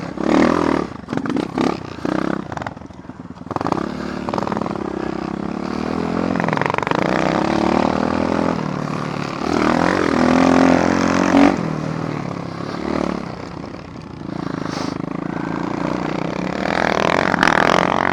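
Apollo dirt bike engine running and revving up and down as the bike rides the trail, with a few clattering knocks in the first few seconds.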